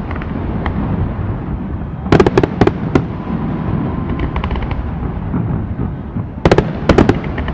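Aerial fireworks display: two rapid clusters of sharp crackling reports, about two seconds in and again near the end, over a steady low rumble of booms.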